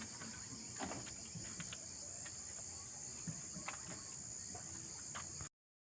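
Crickets chirring in a steady, high-pitched chorus, with a few faint clicks; the sound cuts off suddenly near the end.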